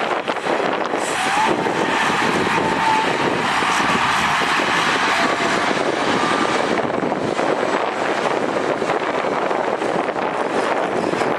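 Heavy diesel earthmoving machinery running and working steadily, with a faint whine wavering in pitch in the first few seconds.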